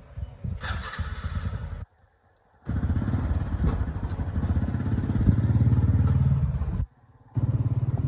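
A motor running with a low, rapidly pulsing rumble, cut off abruptly twice and starting again each time.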